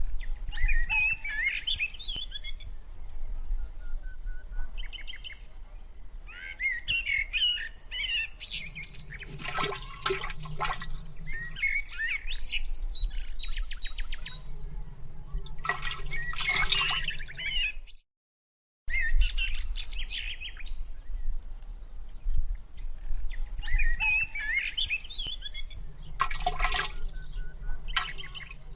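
Birds chirping and singing, with three louder rushing sounds lasting a second or two each. The sound cuts out briefly about two-thirds of the way through.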